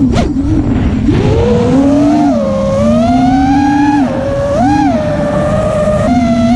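TBS 2750KV brushless motors whining in flight, their pitch climbing about a second in and then rising and falling with the throttle, with a quick blip of revs about two-thirds through and a step up near the end.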